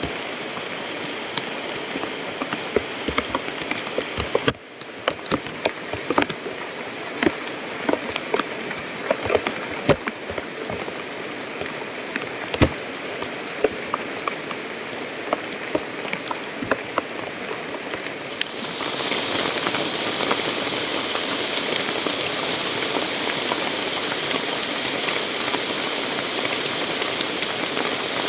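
Rain falling steadily, with many scattered drops ticking on a nearby surface. About two-thirds of the way in, a steady high-pitched hiss joins and the whole sound gets a little louder.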